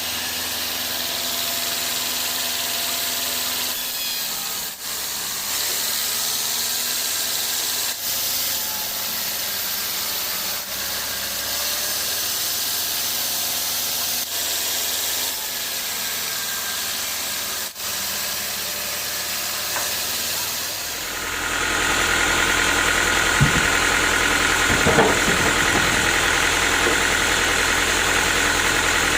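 Sawmill machinery running steadily, with a high hiss. About two-thirds of the way through it grows louder and fuller, like an engine running, with a couple of short knocks.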